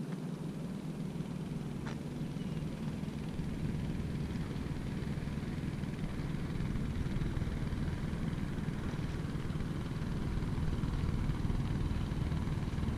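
A steady engine drone, slowly growing louder as it comes nearer, with a single sharp click about two seconds in.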